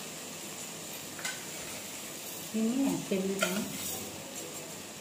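Okra frying in a steel kadai with a steady sizzle, and a few sharp metal clinks as a steel spice container is handled over the pan. About halfway through comes a louder, brief squeaky metal scrape lasting about a second.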